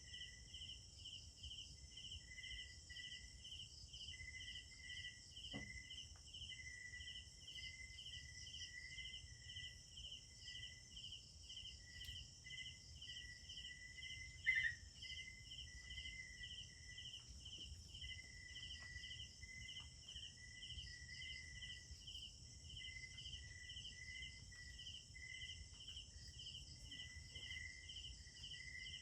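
Night insect chorus of crickets and other insects: a continuous high shrill with a pulsing chirp repeating about twice a second and a lower, intermittent chirping over it. One short, louder call stands out about halfway through.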